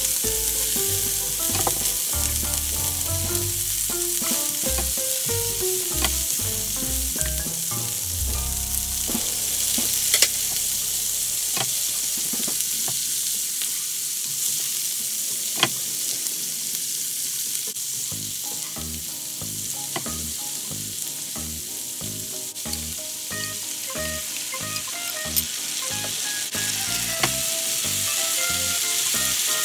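Asparagus and small scallops sizzling in oil in a nonstick pan, stirred and tossed with a spatula, with a steady high hiss and a few sharp clicks of the spatula against the pan.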